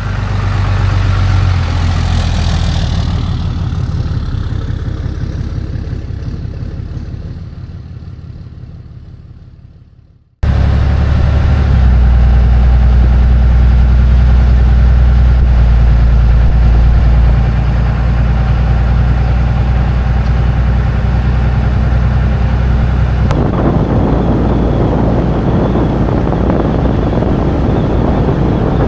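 Pickup truck driving, a steady low engine and road rumble. It fades out about ten seconds in, then cuts straight back in at full level and continues.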